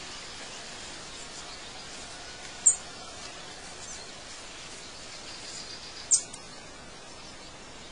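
Outdoor nature ambience: a steady hiss of background noise with short, high bird chirps, two of them loud and sharp, one about a third of the way in and one past the middle.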